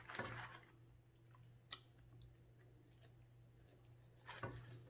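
Faint chewing with a single click about two seconds in and a short run of clicks near the end, over a low steady hum.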